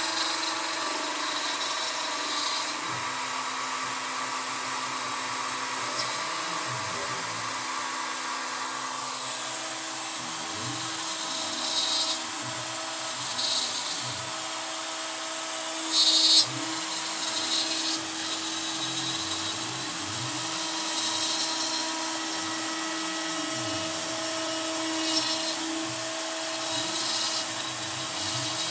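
CNC router with a Kress router spindle running steadily while a 3 mm end mill cuts pine, with low tones rising and falling as the machine's axes move. Short louder bursts of cutting noise come now and then, the loudest about 16 seconds in.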